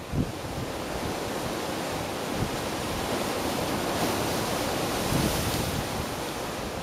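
Ocean surf on a Hawaiian coast: a steady rushing wash of waves that swells a little past the middle, with wind rumbling on the microphone.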